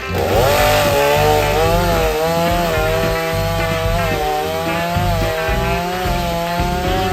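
Stihl chainsaw revving up quickly, then running at high speed with its pitch wavering as it cuts into wood. Background music with a steady low beat plays underneath.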